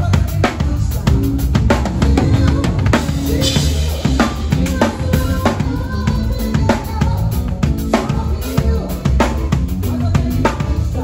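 A band playing live during a soundcheck, driven by a drum kit with kick drum, snare and rimshots over pitched instruments.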